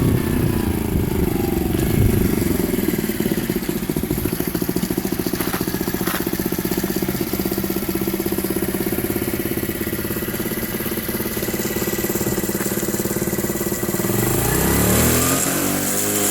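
Jincheng Dax motorcycle engine coming down from higher revs to a steady idle, then revved up and back down once near the end.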